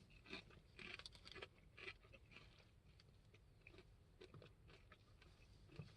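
Faint crunching of a potato chip being bitten and chewed, the crunches coming thickly in the first two seconds and then thinning out.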